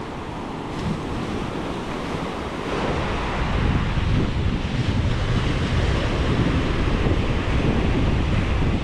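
Small ocean surf breaking and washing on the beach, with wind buffeting the microphone; the wave noise swells about three seconds in.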